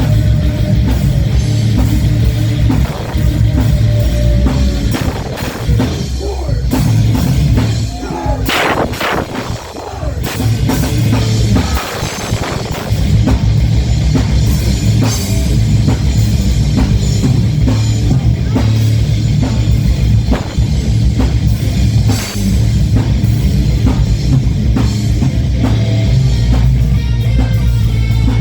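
Rock band playing live, with a drum kit and electric guitar. The full band thins out briefly about eight to ten seconds in, then comes back at full level.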